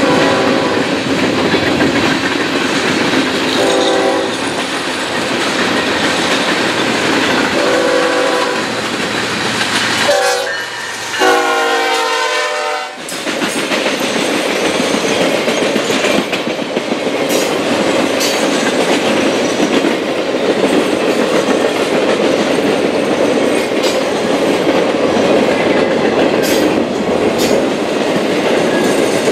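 Diesel locomotive horn sounding four blasts, the last one longest and dropping in pitch as the locomotive passes. It is followed by the steady rumble and rail clatter of a Triple Crown RoadRailer freight train rolling past close by.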